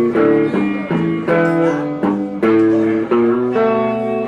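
Live Chicago blues band playing an instrumental passage, led by guitar, between sung lines.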